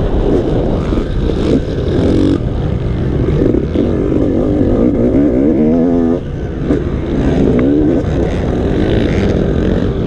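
Motocross dirt bike engine running under throttle, its pitch rising and falling repeatedly as it revs up and down.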